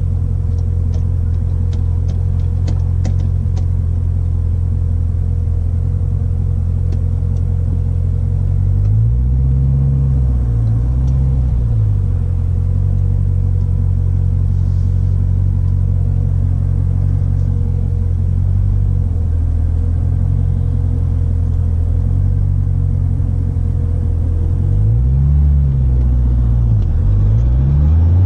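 Corvette ZR1's supercharged 6.2-litre V8 running at low revs at low speed, a steady low rumble heard inside the cabin. Its pitch dips and rises twice about ten seconds in, and again near the end.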